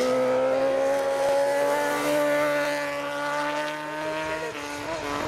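Racing motorcycle engine held at high revs, one steady note that climbs slowly in pitch, then breaks off and changes pitch about four and a half seconds in.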